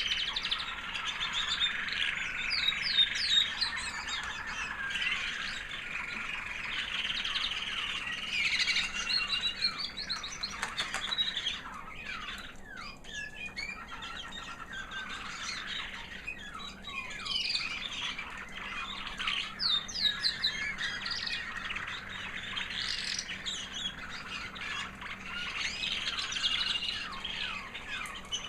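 American Singer canary hen singing a high, sweet song: near-continuous rapid trills and chirps with quick steep sweeps, easing off briefly about halfway through.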